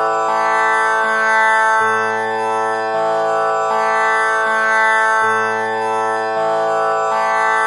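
Tanpura drone tuned to A: its strings plucked one after another in an unbroken cycle that repeats about every three and a half seconds, each note ringing on with a rich spread of overtones, the lowest note near the A two octaves below concert pitch.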